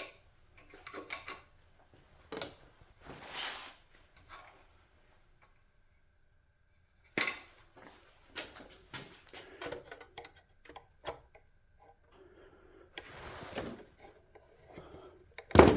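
Tools and small parts handled on a workbench: scattered clicks, rustles and short rasps, with a quiet gap partway through and a sharp, loud knock near the end.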